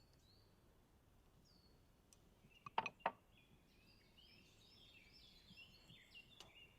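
Faint songbirds chirping, with many short chirps and trills throughout. About three seconds in, three quick sharp knocks are the loudest sound, and there is one more click near the end.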